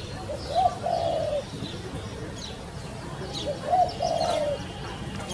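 A pigeon cooing in two drawn-out phrases a few seconds apart, with small birds chirping throughout.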